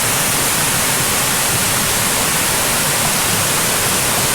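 Water rushing down a creek waterfall: a loud, steady, unbroken noise.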